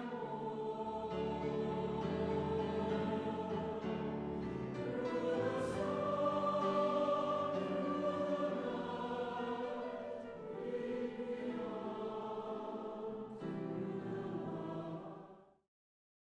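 Choir singing slow, sustained chords, fading out near the end.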